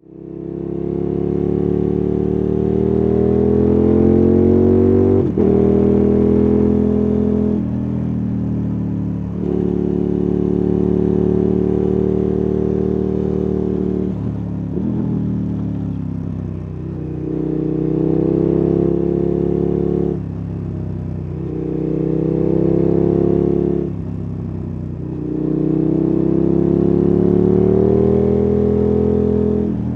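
KTM 1290 Super Adventure S V-twin engine and exhaust under way, heard from on the bike: the throttle is rolled on again and again with the engine pitch climbing for a few seconds each time, then closed off with a sudden drop in pitch.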